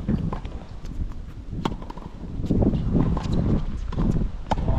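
Tennis ball struck by rackets in a rally, sharp hits a few seconds apart, with wind buffeting the microphone as a low rumble that swells in the middle.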